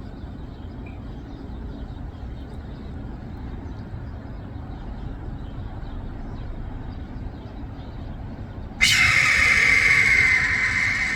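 Red-tailed hawk giving one long, hoarse scream near the end, starting suddenly and fading out over about three seconds, over a low steady background rumble. It is an alarm cry, which the owner says the hawk gives only when another hawk is nearby.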